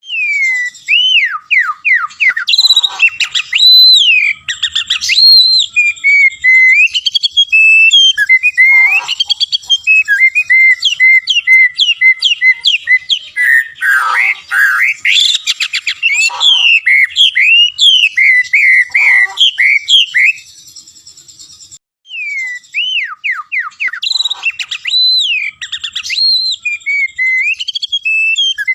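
White-rumped shama (murai batu) singing loudly: a long, varied run of clear whistled phrases, sweeping glides and rapid chattering notes, with a short pause about two-thirds of the way through.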